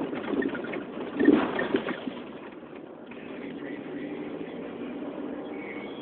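Ford Escort with a drilled exhaust running while being driven slowly, heard from inside the car. A few louder uneven surges come in the first two seconds, then a steady drone sets in from about three seconds on.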